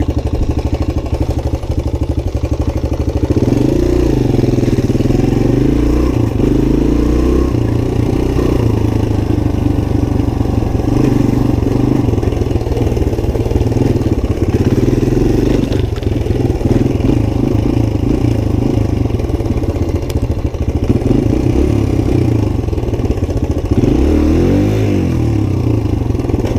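Suzuki DR-Z125's single-cylinder four-stroke engine running, picking up about three seconds in and rising and falling in revs, with a quick rev up and back down near the end.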